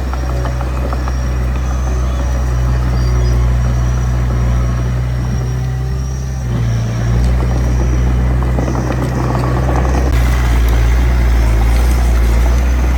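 Small bulldozer's diesel engine running steadily under load, with a low drone that shifts in pitch about 6.5 and 10 seconds in, and a light rattling over it.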